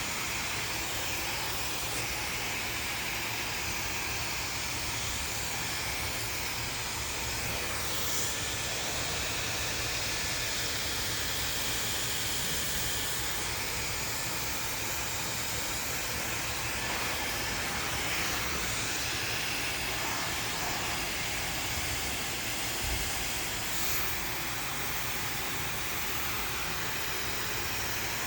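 Handheld hair dryer running steadily during a blow-dry, a continuous rush of blown air with a hiss.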